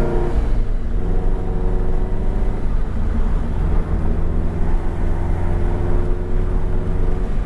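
Scion FR-S's flat-four engine with a modified, louder exhaust, heard from inside the cabin while driving. Its note breaks off and settles lower within the first second, then holds steady at cruise.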